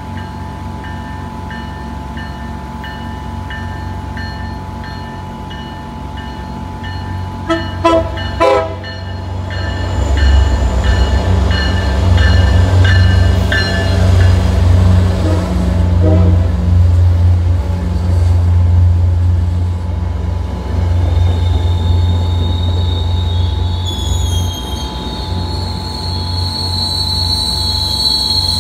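Commuter train led by an EMD F40PH-3C diesel locomotive approaching and passing close by. A bell rings at an even beat. The horn gives two short blasts about eight seconds in and another short one a little later. The diesel engine's low rumble swells as the locomotive goes by, and a high wheel squeal sets in near the end.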